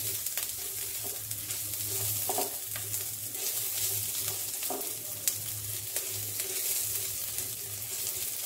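Chopped garlic, ginger and chilli sizzling in hot olive oil in a steel pan, stirred with a spatula that gives light scraping ticks against the pan.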